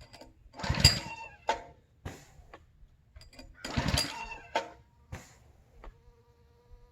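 Small gasoline engine of a pressure washer turned over twice by hard pulls on its recoil starter cord, about three seconds apart, each a short burst of cranking that does not catch. It is being cranked with the choke on, which the owner concludes is too much choke for it to start.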